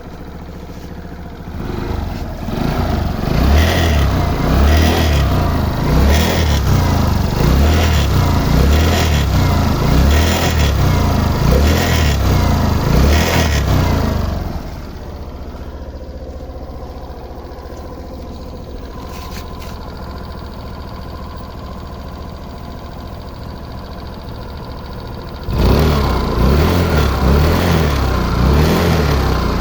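Motorcycle engine revved in repeated blips, roughly once a second, then settling to a steady idle about fifteen seconds in, and revved again near the end. It has a clicking rattle (lagitik) that the owner suspects is a fault.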